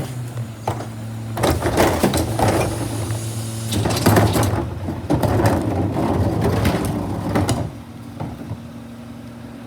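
Garbage truck engine running steadily under a long run of clattering and banging, typical of a cart being dumped into the hopper. The clatter stops about seven and a half seconds in, leaving the engine running more quietly.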